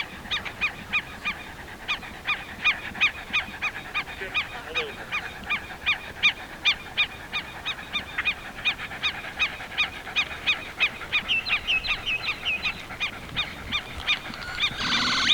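A water bird calling over and over in a fast, steady series of short, sharp, nasal calls, about three to four a second. A brief rush of noise comes near the end.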